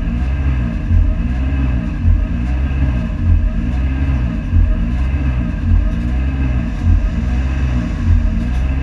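Honda Civic FD2 race car's four-cylinder engine idling while stationary, heard from inside the cabin, with a low surge that rises and falls about once a second.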